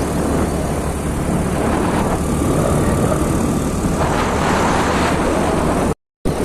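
Motorcycle running steadily at road speed, with wind noise rushing over the microphone; the sound cuts out completely for a moment near the end.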